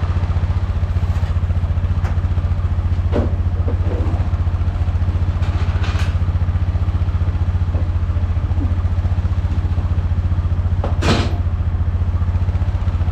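A VW 1.9-litre ALH TDI four-cylinder turbodiesel idling steadily with a low, even, rapid beat, with a few brief clicks over it and the sharpest one about 11 seconds in.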